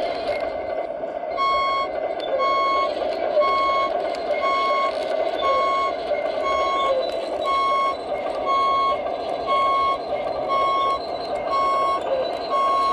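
Reversing alarm from a radio-controlled model truck's sound module: one steady beep repeating a little faster than once a second, starting about a second and a half in, over a steady rushing background.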